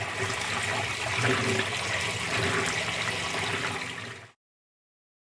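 Top-loading washing machine agitating its tub of water during a cleaning cycle: a steady churning slosh over a low motor hum, which cuts off suddenly a little past four seconds in.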